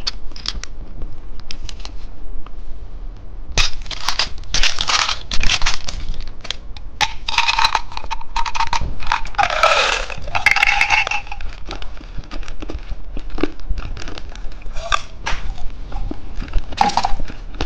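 Plastic candy packaging crinkling and tearing in irregular bursts of rustle and sharp clicks, busiest about halfway through.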